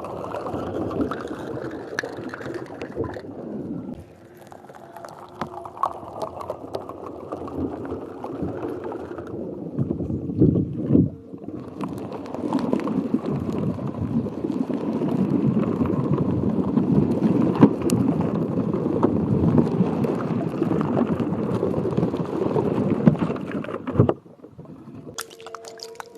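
Water gurgling and sloshing, in three stretches that break off about four and eleven seconds in and stop a couple of seconds before the end.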